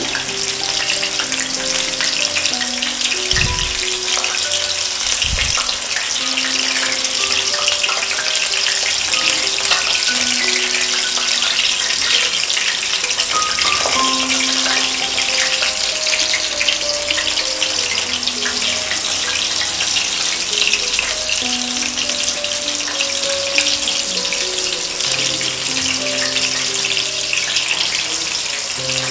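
Battered chicken pieces deep-frying in hot oil on a medium flame, a steady sizzle, with background music playing over it.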